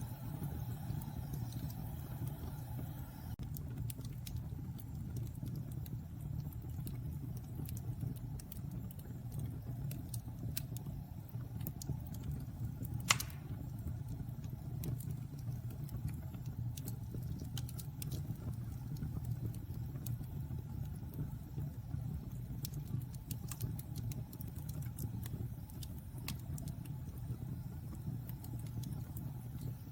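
Fire burning in a fireplace: a steady low rumble with scattered small crackles, and one loud sharp pop a little before the middle.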